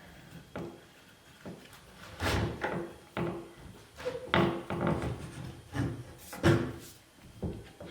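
Irregular knocks and rubbing as a stretched rubber tire is worked onto a band saw wheel on a wooden jig, with the tire pulled hard and rolled on with a PVC pipe.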